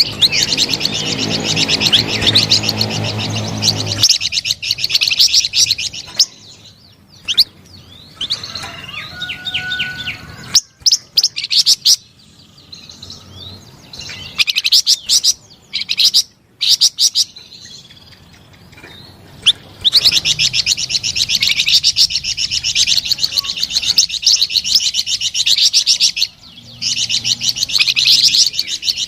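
A flamboyan songbird singing a fast, continuous twittering song. The song breaks off about six seconds in, leaving only scattered short chirps and clicks, and resumes in full at about twenty seconds.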